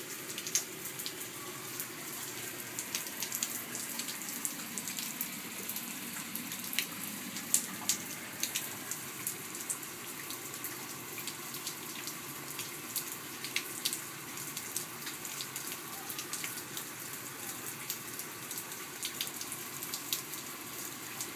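Steady rain falling, with many separate drops ticking irregularly close to the microphone.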